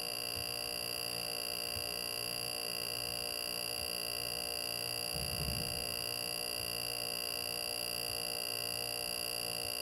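WR-2138SL refrigerator giving off a steady high-pitched whine made of several pure tones, over a faint regular low pulsing, with a brief low rumble about five seconds in. This is the abnormal noise that started a few hours after the new fridge was first powered on, and the owner fears it is a fault.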